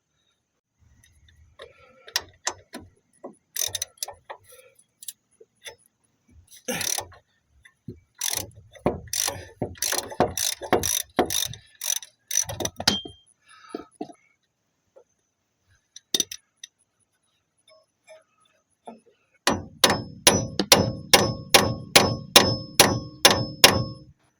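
Hand ratchet wrench being worked back and forth, clicking in short irregular bursts, then a steady run of ringing metallic strokes at about two to three a second near the end.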